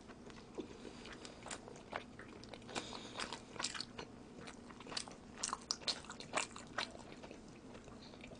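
A person chewing a mouthful of bulgogi Chicago-style pizza close to the microphone, with many quiet, short mouth clicks at irregular intervals.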